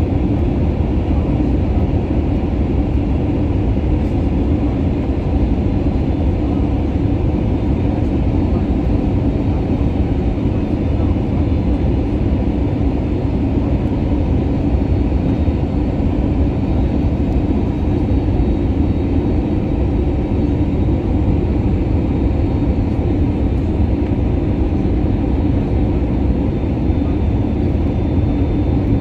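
Steady engine and airflow noise of an Airbus A320neo airliner, heard from inside the cabin: an even, deep rushing drone that does not change.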